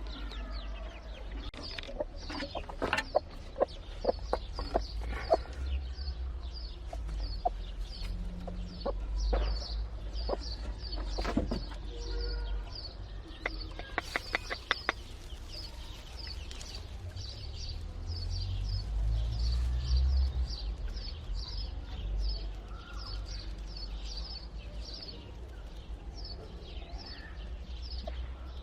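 Newly hatched chicks peeping in a steady run of short high chirps, about two to three a second, with a hen clucking. Clusters of sharp clicks come a couple of seconds in and again around the middle.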